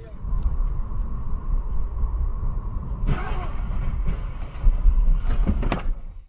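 A car on the road: a steady low rumble of engine and road noise, with sharper noises about three seconds in and again near the end.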